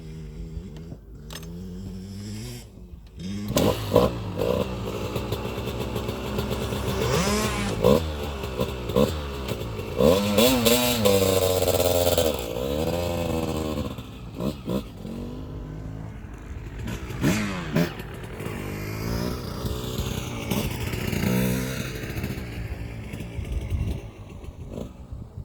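KTM 65 SX's 65cc two-stroke single-cylinder engine revving hard on a motocross track, its pitch rising and falling again and again as the rider shifts and throttles through the gears. Loudest from about four to fourteen seconds in, then easing somewhat.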